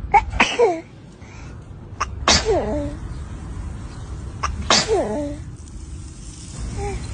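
A person sneezing three times: sharp bursts at the start, about two seconds in and about five seconds in, each trailing off in a falling voice.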